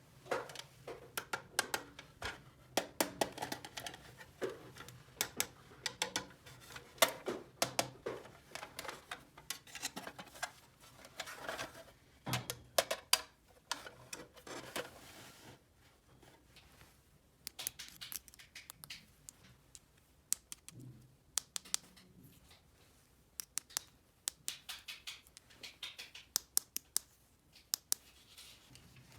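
Small plastic toy pieces and packaging being handled, giving irregular sharp clicks, taps and scrapes. The clicks come thick in the first half, thin out in the middle, and pick up again near the end.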